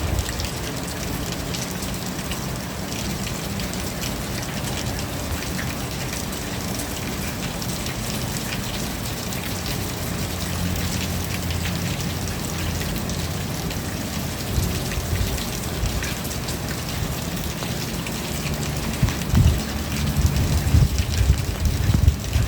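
Steady rain falling, with many separate drop hits heard through it. Irregular low rumbles swell up in the last few seconds.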